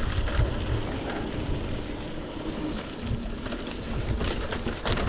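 Mountain bike rolling slowly down a rough dirt trail: steady tyre noise with scattered rattles and clicks, and wind rumbling on the microphone.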